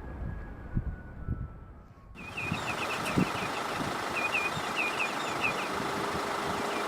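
Low wind rumble on the microphone, then, after a sudden change about two seconds in, a steady background hiss with a string of short, high bird chirps repeating in quick clusters.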